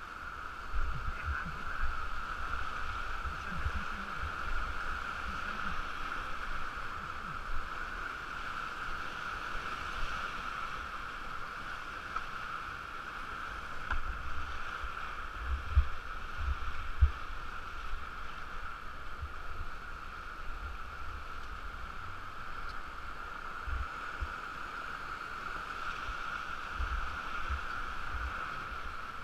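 Steady rushing of river water around a raft or canoe, with scattered low thumps of wind or knocks on the microphone, the strongest about halfway through.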